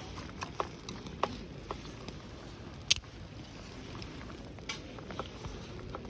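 Irregular light taps and clicks over a low steady background noise, with one louder sharp knock a little before three seconds in.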